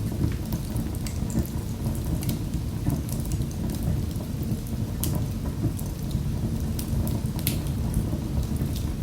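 Wood fire in a fireplace crackling: irregular sharp pops and snaps over a steady low rumble of the flames, with the loudest pops about five and seven and a half seconds in.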